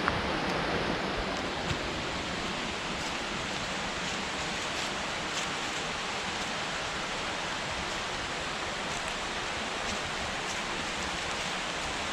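Steady rush of flowing creek water, an even noise with a few faint ticks.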